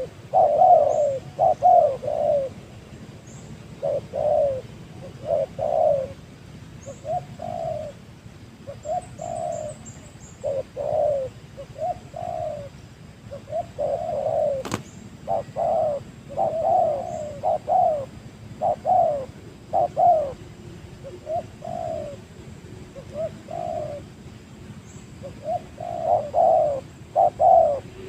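Spotted dove cooing: short low coo phrases repeated again and again with brief gaps. A single sharp click sounds about halfway through.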